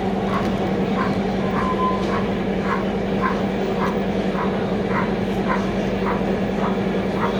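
Model train running on an exhibition layout: a steady motor hum with a regular ticking about twice a second, over the noise of a busy hall.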